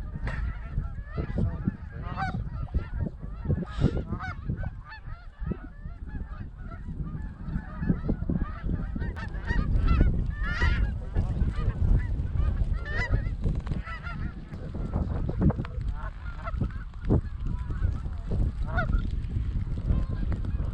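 A flock of Canada geese honking, many overlapping short calls, over a heavy low rumble of wind on the microphone.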